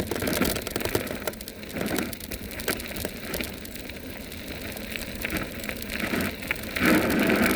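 Vivi 26-inch e-bike rolling fast over a dirt fire road: tyres crackling and crunching over gravel, with many small sharp clicks and rattles from the bike. There is a louder rush about seven seconds in.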